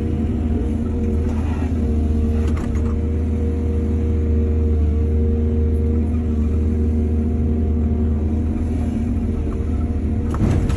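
Excavator's heavy diesel engine running steadily, with a brief clatter about two and a half seconds in and again near the end.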